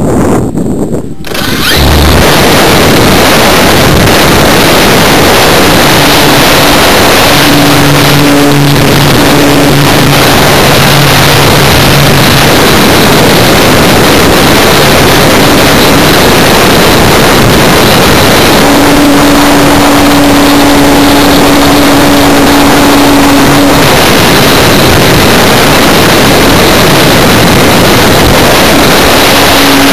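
Loud, steady rush of airflow over the microphone of a camera mounted on an electric RC glider in flight. A low droning tone from the glider's electric motor and propeller comes and goes over it. The rush sets in suddenly about a second and a half in.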